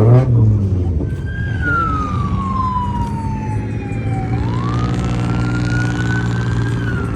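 Police siren wailing slowly: its tone falls over about three seconds, then climbs again. Underneath is a steady engine hum, and a short engine rev comes right at the start.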